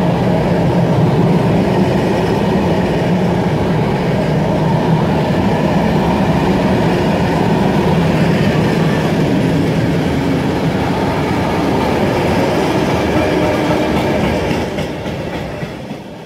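Mixed freight train of open wagons and tank wagons running past at speed, a steady loud rumble of wagon wheels on the rails. It fades out near the end as the last wagons go by.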